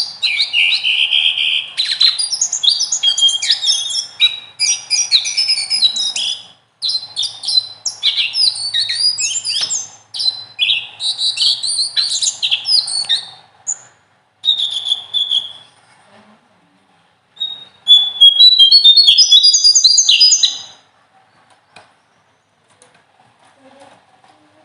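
A small songbird singing long, rapid runs of varied high-pitched notes: sharp piercing bursts mixed with rolling trills. Past the middle the song breaks into shorter bursts, then stops a few seconds before the end.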